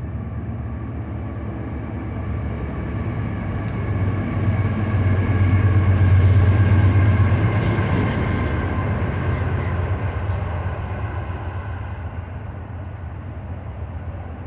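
Train passing by: a low rumble that builds to its loudest about six seconds in, then slowly fades.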